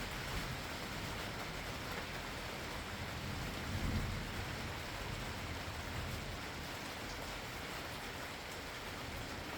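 Steady rain falling, with a brief low rumble of thunder swelling about four seconds in.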